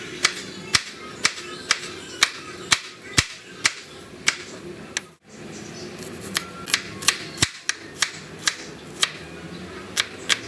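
Knife chopping on a cutting board in steady, sharp strokes about twice a second, with a brief break about halfway through.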